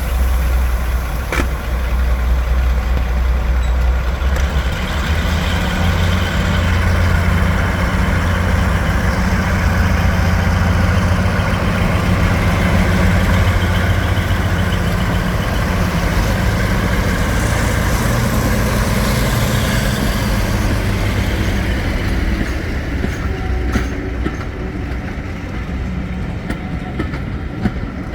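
Diesel train engine running loud and steady, its note stepping up about five seconds in, then easing and fading slightly near the end.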